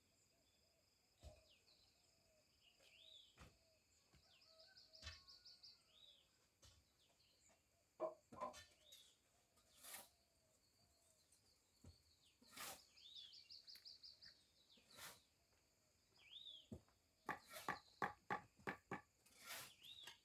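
Birds calling: short, repeated high chirps and twice a fast trill, fairly faint. Scattered light knocks, with a quick run of taps late on.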